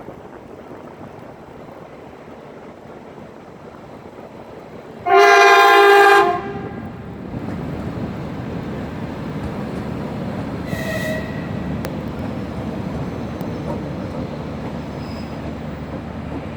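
Train horn sounding one loud blast of just over a second, about five seconds in. A train then runs past with a steady rumble, and a second short, fainter horn note comes a few seconds later. Wind noise is heard before the horn.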